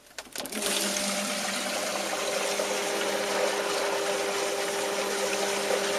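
A couple of brief knocks as the pipe is shaken, then a sump pump kicks on about half a second in and runs steadily: a motor hum with water rushing through. The pump had stuck and has been freed by shaking its pipe.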